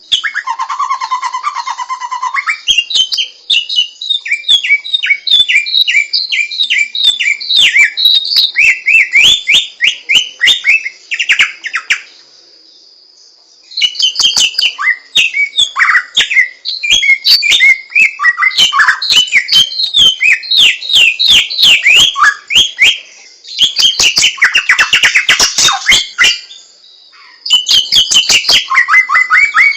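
Samyong songbird singing a long, fast, varied song of quick whistled and chattering notes, breaking off twice for a second or two, over a steady thin high tone.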